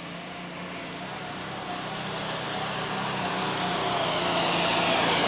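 Super stock pulling tractor's turbocharged engine running flat out under load as it drags the sled down the track, growing steadily louder.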